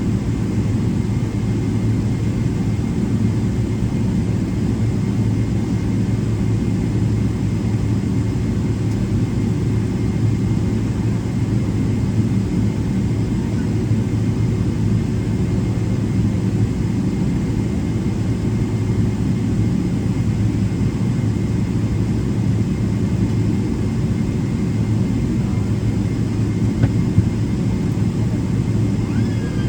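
Cabin noise of a Boeing 777-300ER taxiing with its GE90 engines at idle: a steady low rumble with a faint, thin steady tone above it.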